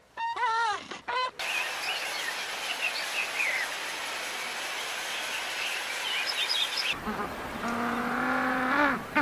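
Chickens clucking for about the first second. Then comes a steady outdoor hiss with small birds chirping, and near the end a cow starts a long, low moo.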